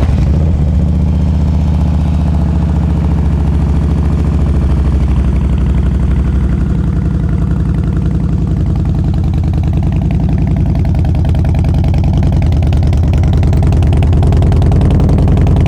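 2008 Harley-Davidson Ultra Classic's V-twin engine idling steadily through a true dual exhaust with Thunderheader mufflers, just after being started.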